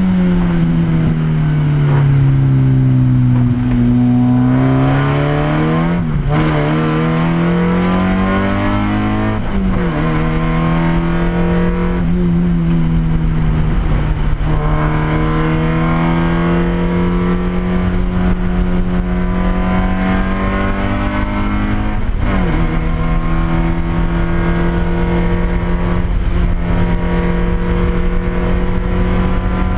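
Race car engine heard from inside the cabin, dropping in pitch as the car slows for a corner, then pulling back up through a series of upshifts, four in all, with longer steady stretches between the later ones.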